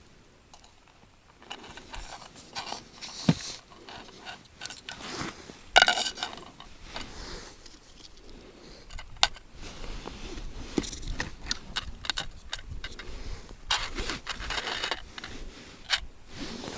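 Fishing gear being handled: irregular scraping and rustling with sharp clicks. The loudest knock is about six seconds in, and a sharp click follows a few seconds later.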